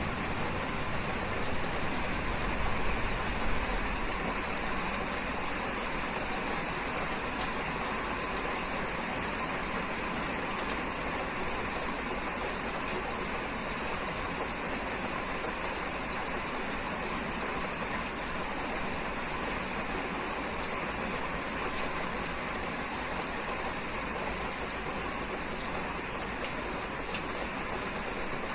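Steady rain falling, an even hiss with no single drops standing out. A low rumble swells briefly in the first few seconds, then fades.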